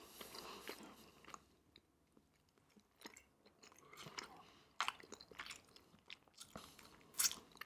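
Close-miked chewing of a mouthful of food: soft, wet mouth clicks and smacks, with a couple of louder smacks about five seconds in and near the end.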